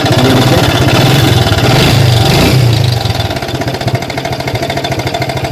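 Motorcycle engine running with a loud, rapid metallic rattle, the abnormal noise that the mechanic traces to a worn timing chain. The engine speed and level drop about three seconds in, and the fast ticking rattle continues at the lower speed.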